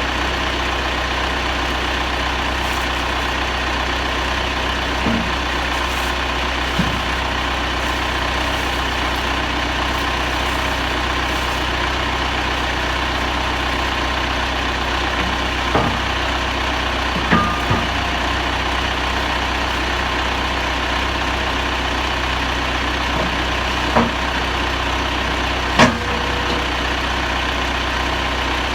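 Engine idling steadily, with a handful of short, sharp clunks scattered through it, the loudest near the end.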